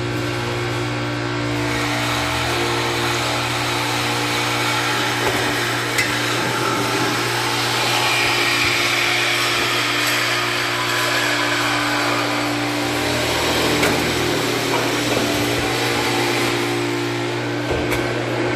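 A power tool running steadily while cutting through exhaust pipe, with a harsher, hissing cut for several seconds in the middle.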